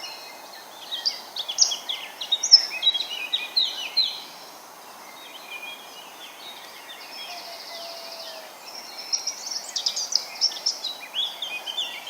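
Several wild birds singing and chirping together, quick overlapping phrases and trills, busy for the first four seconds, thinner in the middle, then busy again near the end, over a steady background hiss.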